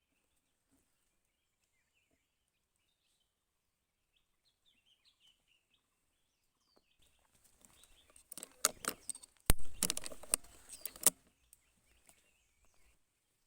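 Small birds chirping faintly, then a flurry of sharp clicks and crackling rustle with one loud crack about nine and a half seconds in.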